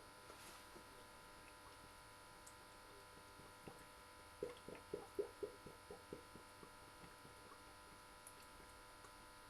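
Motor oil glugging out of a bottle into the engine's oil filler: a quick run of about a dozen gurgles over two seconds, starting about halfway through, against a faint steady hum.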